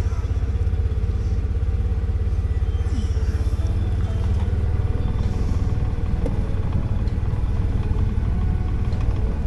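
Polaris Ranger 570 side-by-side's single-cylinder engine running steadily while driving, a heavy, fast-pulsing low drone.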